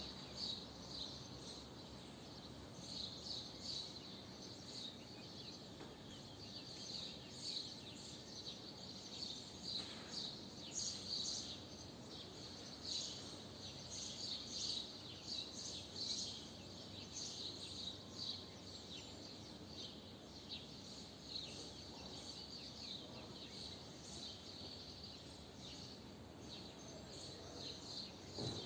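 Swallows twittering: a steady stream of short, high chirps in loose clusters, over a steady low background noise.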